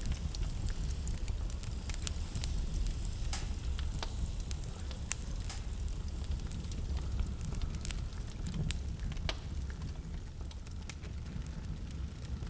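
Wood fire in a fireplace crackling and popping: irregular sharp snaps over a steady low rumble of the flames.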